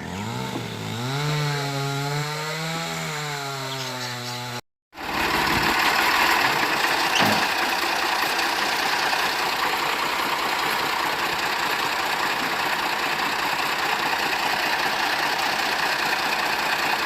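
Chainsaw engine running, its pitch slowly rising and falling, for the first four or five seconds. After an abrupt break comes a louder, steady, harsh noise of the saw cutting into wood.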